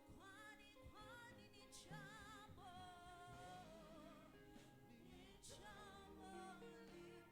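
Faint gospel worship music: a voice sings held notes with a wavering vibrato over a steady instrumental backing.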